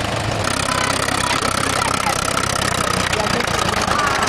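Vintage tractor engine running steadily, with a steady high whine joining about half a second in.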